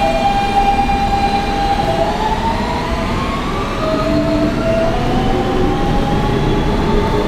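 Kawasaki R160B subway car with Siemens propulsion pulling away from a station. The traction motor whine climbs in pitch, drops back about halfway through and climbs again, over a steady rumble of wheels on rail.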